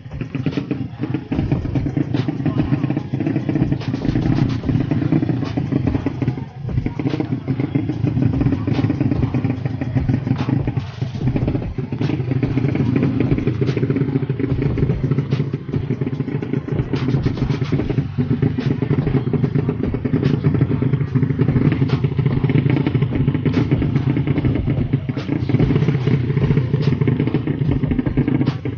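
Motorcycle engine running steadily, with many short clattering knocks on top.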